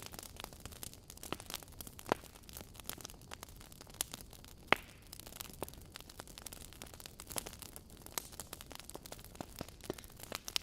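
Wood fire crackling in a fireplace: burning logs giving off irregular sharp pops and snaps over a low hiss, with two louder pops about two seconds in and near the middle.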